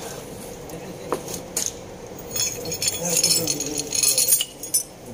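Metal hand tools and parts clinking and rattling during engine work: a few single clicks, then about two seconds of dense jangling in the second half.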